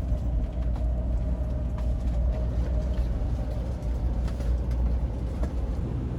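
Steady low rumble of a moving vehicle, with a faint held whine above it.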